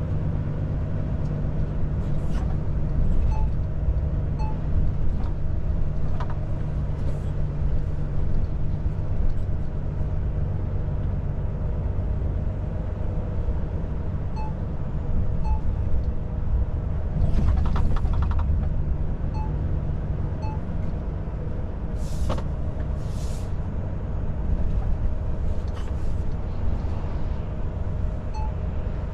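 Volvo FH 500 truck's diesel engine running steadily with road rumble, heard from inside the cab while driving. A light tick repeats about once a second at times, and two short hisses come about two-thirds of the way in.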